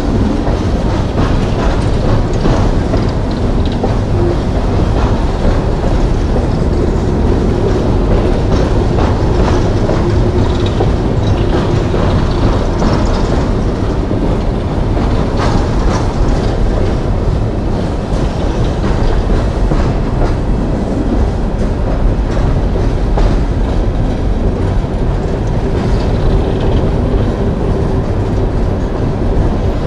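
A long string of coal hopper cars rolling past steadily: steel wheels rumbling on the rails with a continuous clickety-clack over the joints. A faint steady whine comes and goes twice.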